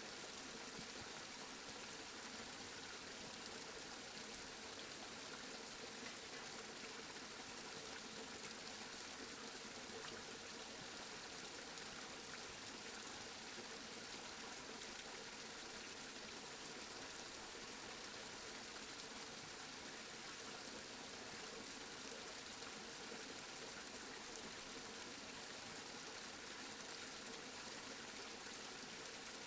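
Steady rain, an even hiss of falling water with no distinct drops or breaks.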